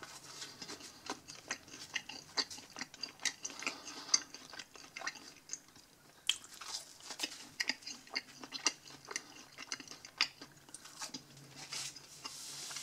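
A person chewing a bitten-off piece of pizza crust with his mouth close to the microphone: many small, irregular wet clicks and smacks.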